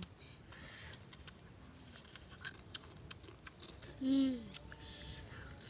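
Close mouth sounds of a person chewing cooked scorpion, with many small sharp clicks and crackles. About four seconds in comes a short hummed "mm" that falls in pitch.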